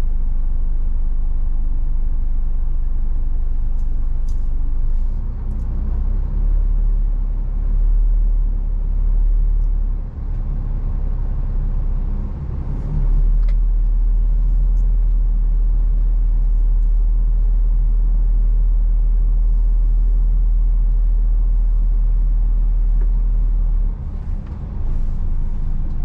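Scania 450 truck's diesel engine droning steadily under way, heard from inside the cab with road noise; the drone briefly drops twice, about ten seconds in and near the end.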